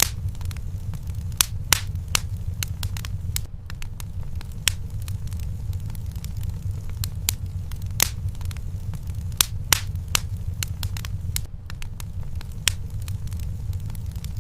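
Wood fire in a fireplace crackling, with sharp pops at irregular intervals over a steady low rumble.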